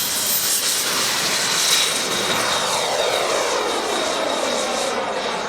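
Kingtech model jet turbine of a 1:5 scale RC F-16 running in flight: a steady high whine over a broad rushing jet noise, with a sweeping, phasing quality through the middle as the model passes.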